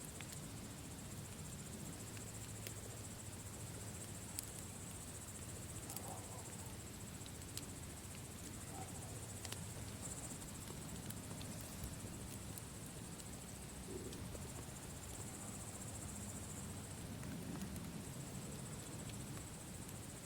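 Campfire crackling, with sparse sharp pops every second or two over a low rumble, under a steady high-pitched chirr.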